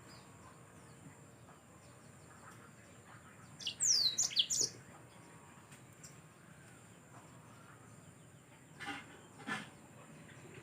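Yellow-fronted canary (Mozambique canary) giving a short burst of high, quick chirps that slide downward in pitch, about four seconds in. Two short, sharp sounds follow near the end, over faint background chirping.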